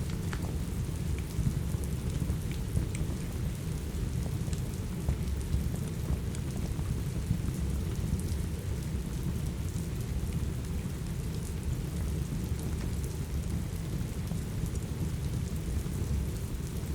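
Steady rain mixed with a crackling wood fire: an even rain hiss over a deep, continuous low rumble, with small scattered pops throughout.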